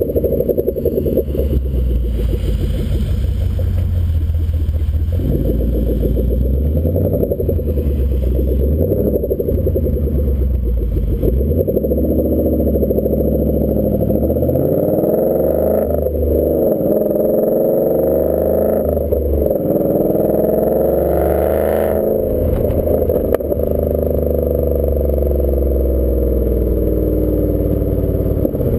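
Exhaust of a 2014 Ford Mustang GT's 5.0-litre V8 through a Roush axle-back exhaust, in normal driving. The revs rise and fall several times in the middle, as the car accelerates and shifts, around a steady deep running note.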